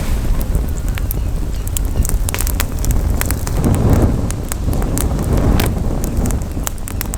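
Campfire crackling, with many sharp irregular pops, over a low rumble of wind on the microphone.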